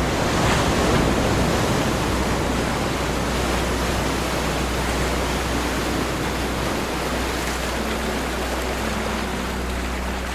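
Ocean surf: waves washing continuously, loudest in the first couple of seconds and then easing slowly, over a steady low rumble.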